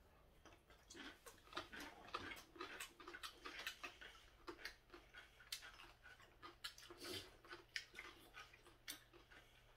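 Faint, irregular crunching of pickled yellow radish (danmuji) being chewed: a string of small crisp clicks, a few a second.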